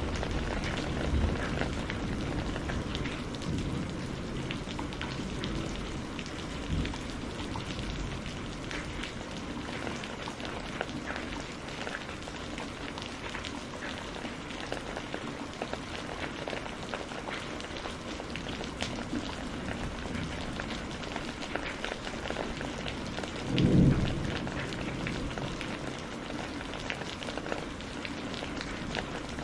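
Steady rain falling, with many small drop ticks over an even hiss. Low thunder rumbles in the first few seconds, and a short, louder low rumble of thunder comes about three-quarters of the way through.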